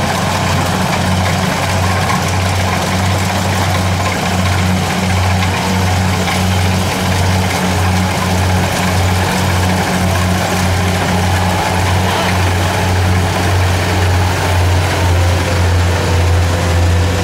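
Kubota DC70 rice combine harvester's diesel engine running steadily, a deep drone that pulses slightly.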